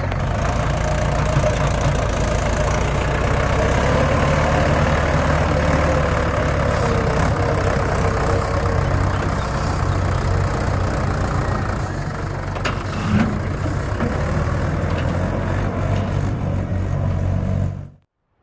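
Mahindra 585 DI Power Plus tractor's four-cylinder diesel engine running steadily while hauling a fully loaded trolley; the sound cuts off abruptly near the end.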